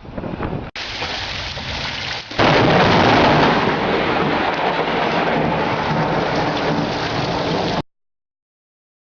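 Rain falling, then about two and a half seconds in a close lightning strike's thunder breaks suddenly and rumbles loud for about five seconds before cutting off abruptly.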